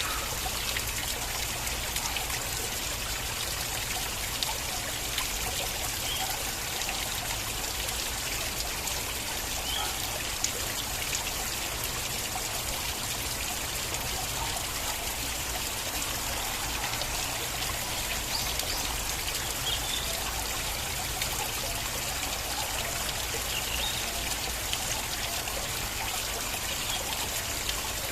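Flowing stream water running steadily, with a continuous trickling babble and small splashes scattered through it.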